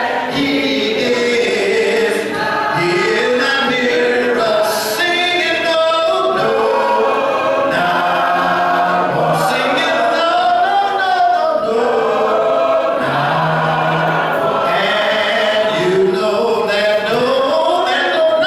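A group of voices singing a gospel song together a cappella, with no instruments.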